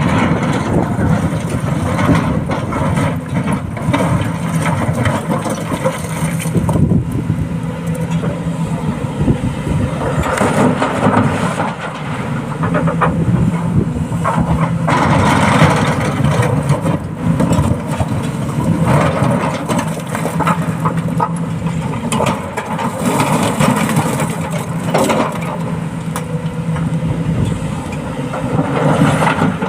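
Excavator's diesel engine working under changing load, its hum stepping up and down every few seconds, with scattered knocks and clatter of rock being handled.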